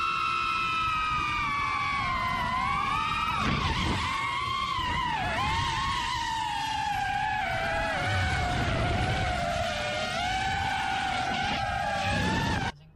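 Car tyres squealing in one long, unbroken skid or drift. The pitch wavers and slowly falls, then cuts off suddenly near the end.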